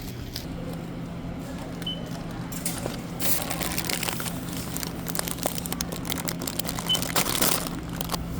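Crinkling, rustling handling noise with scattered clicks, loudest about three seconds in and again near the end, over a steady low hum.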